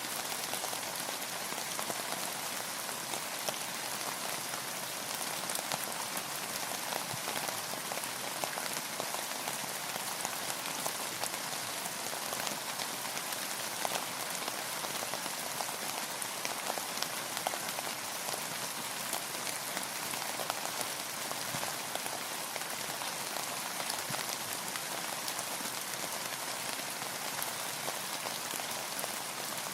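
Steady rainfall: a dense, even hiss of rain with many small drops ticking on a surface.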